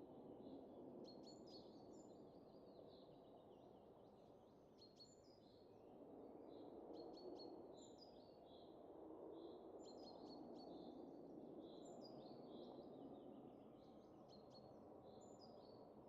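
Faint wind that rises and falls in soft gusts, with small birds chirping and tweeting repeatedly over it.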